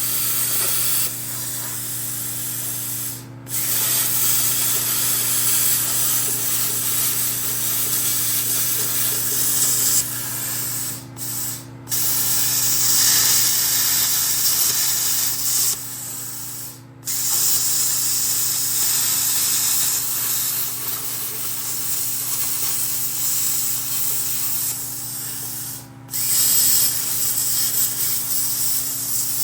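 Plasma cutter cutting sheet metal: a steady loud hiss of the air-and-arc jet, stopping briefly about four times as the trigger is released and pressed again, over a steady machine hum.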